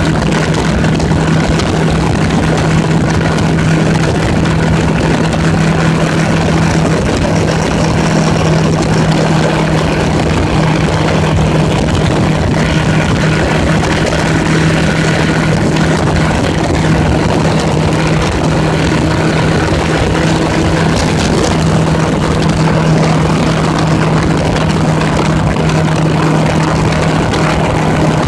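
1980s Honda Gold Wing motorcycle engine running at a steady cruise, with wind rushing over the microphone.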